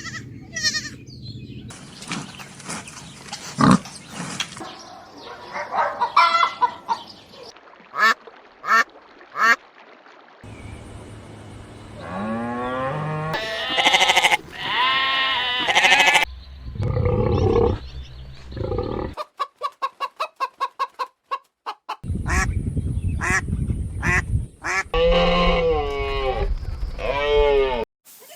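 Farm poultry calling in a string of short clips: honking and quacking calls with rapid runs of short notes, typical of geese and ducks.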